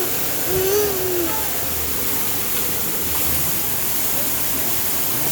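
Steady rushing of a waterfall. Within the first second and a half a young child makes a couple of short wordless vocal sounds over it.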